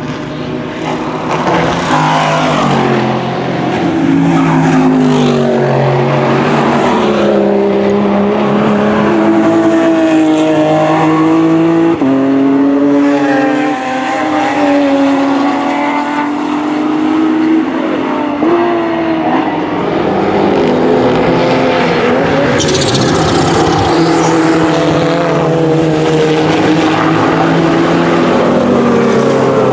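Racing car engines running hard as cars pass one after another, several at once, climbing in pitch and dropping back at each gear change. About two-thirds of the way through the sound turns suddenly brighter.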